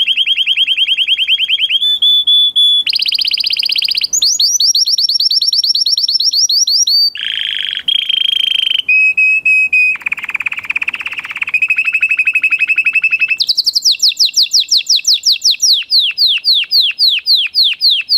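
High-pitched, alarm-like beeping and trilling. A rapid pulsed tone switches abruptly to a new pattern every second or two, and near the end it becomes quick rising sweeps, about three a second.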